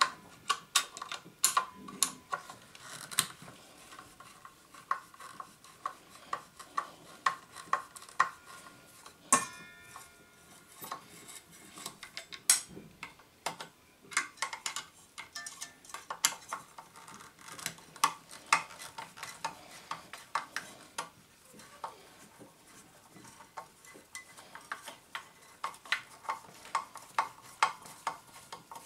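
Small metal parts and hand tools clinking and clicking as a miter saw is taken apart by hand: irregular sharp clicks and taps, a few with a brief metallic ring.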